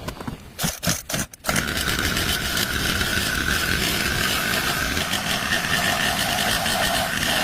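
A few sharp knocks, then about a second and a half in a mini scooter's small engine starts and keeps running steadily with a constant whine.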